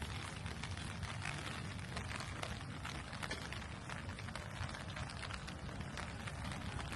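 Steady rain falling, a continuous hiss full of the small ticks of individual drops, over a low rumble.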